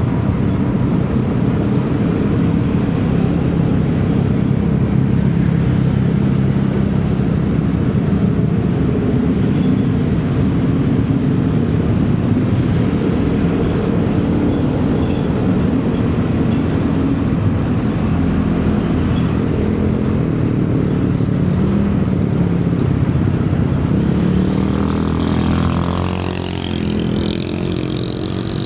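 Motorcycle engine running steadily under way, with city traffic noise around it. About 25 seconds in, a wavering, shifting-pitch sound from nearby traffic briefly rises over it.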